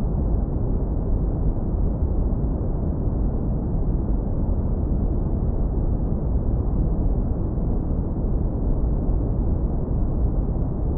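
Synthetic brown noise, heavily low-pass filtered: a steady, deep, smooth rumble with no high end and no changes.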